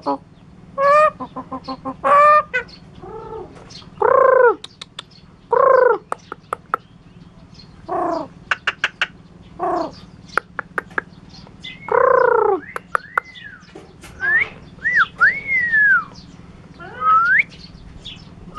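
Javan myna (jalak kebo) mimicking: a string of drawn-out calls that fall in pitch, like a hen's, with bursts of rapid clicking between them. Near the end come arched and rising whistles.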